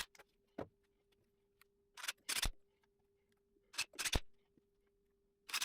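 Short knocks and clicks of oak pieces and hardware being handled during glue-and-screw assembly, coming in small clusters every couple of seconds, over a faint steady hum.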